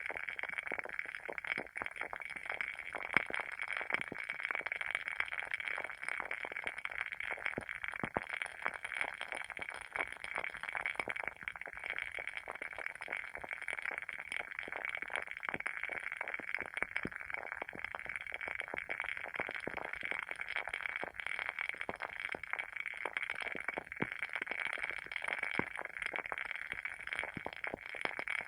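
WoodWick candle's wooden wick burning with a dense, steady crackle, many small irregular pops over a soft hiss. Now and then a louder pop stands out.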